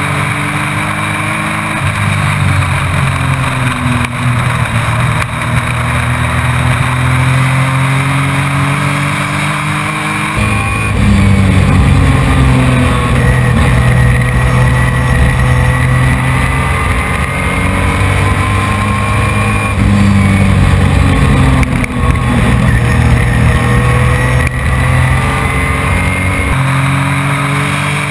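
Race truck's engine heard from onboard, running hard around a short oval: the engine note climbs as the throttle opens and sags as it lifts, with a louder, higher push starting about ten seconds in and easing off near the end.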